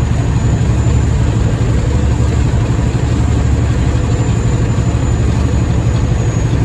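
Semi truck driving at highway speed, heard from inside the cab: a steady low engine drone mixed with road noise.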